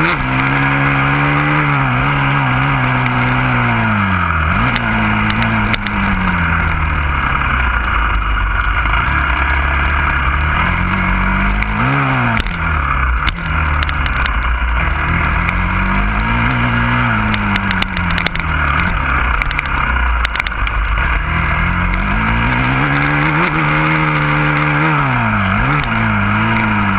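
Husqvarna FC 350 four-stroke single-cylinder dirt bike engine running under load, its revs rising and falling over and over as it accelerates and backs off around the track. A steady hiss runs underneath, with scattered sharp knocks and clatters.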